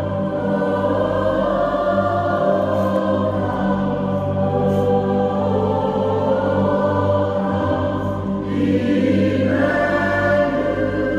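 A choir singing a Christmas song, with sustained voices over steady instrumental accompaniment.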